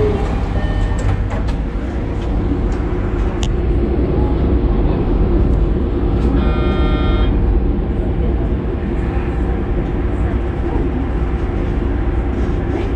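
Steady low rumble and hum inside a hybrid diesel railcar standing at the platform. A few light clicks come early, and a brief tone about a second long sounds near the middle.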